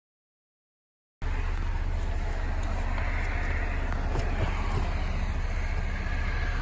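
Car driving: a steady, loud rumble of road and engine noise that cuts in suddenly after about a second of total silence.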